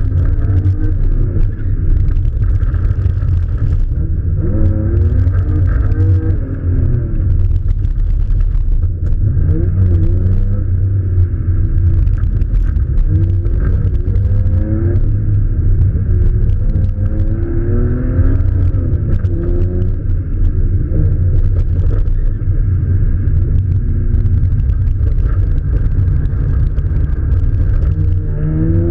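A car engine under hard driving, revving up again and again in short rising sweeps with a heavy rumble underneath, easing off between pulls as the car accelerates out of corners. The sound is muffled, as if picked up by a camera in a sealed case.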